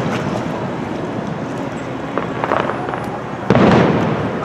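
Disneyland fireworks show: aerial shells bursting, with a faint crackle a little past two seconds in and one loud boom about three and a half seconds in.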